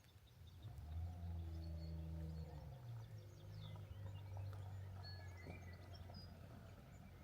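Small birds chirping and calling in the countryside, with a low, steady mechanical hum, like a distant engine, starting about a second in and becoming the loudest sound, shifting slightly in pitch about three seconds in.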